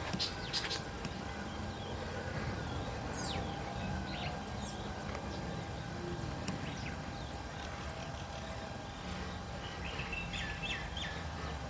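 Small birds chirping now and then over a steady low outdoor rumble, with a quick run of about four chirps near the end.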